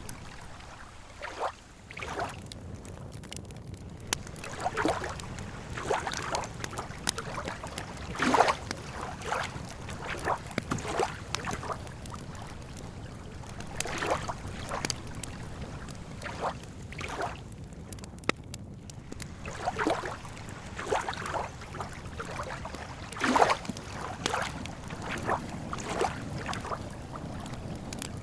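Lake water lapping at the shore in irregular small splashes, over a steady low rumble. A few sharp crackles from a campfire come through now and then.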